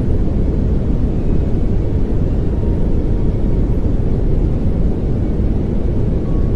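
Steady pink noise: an even, deep hiss weighted toward the low end, with no change in level.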